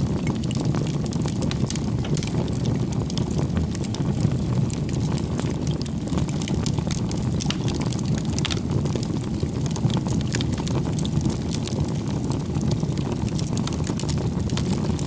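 Wood fire burning: a steady low rush of flames with frequent small crackles and pops of burning wood.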